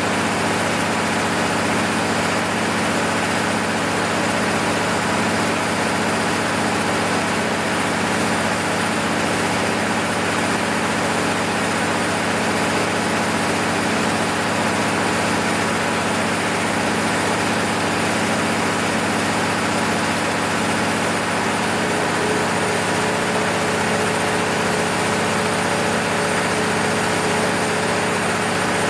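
Six-cylinder diesel engine of an MEP-006A 60 kW military generator set running steadily. About three-quarters of the way through, a new steady tone joins its hum.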